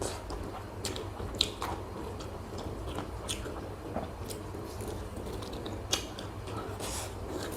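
A person eating up close, biting and chewing with scattered wet mouth clicks and small crunches. Two sharper clicks stand out, about a second and a half in and near six seconds.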